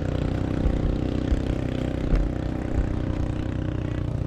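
An engine running steadily at an even speed, with a few faint knocks.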